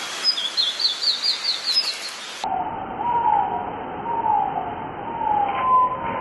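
Birds calling: a quick run of short rising chirps, then, after an abrupt change in the sound about two and a half seconds in, a series of lower, falling whistled notes repeated about once a second.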